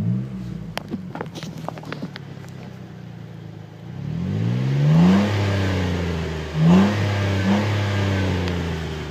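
Jeep Wrangler JK V6 engine breathing through a newly fitted Dynomax aftermarket exhaust, idling, then revved up about four seconds in and held, with two quick blips of the throttle near seven seconds before dropping back toward idle.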